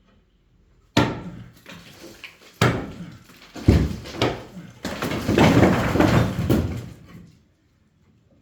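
Heavy blows knocking bricks out of a brick wall during demolition: three hard strikes, then about two seconds of bricks and rubble clattering down.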